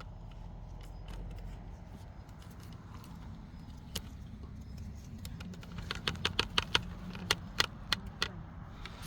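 Korean hand hoe (homi) digging into soil: a run of sharp, irregular clicks and scrapes as the blade strikes earth and small stones, thickest from about six to eight and a half seconds, over a low steady rumble.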